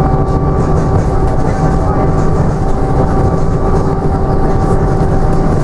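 Inside a Scania OmniDekka double-decker bus on the move: steady engine and road noise with a constant whine from the drivetrain.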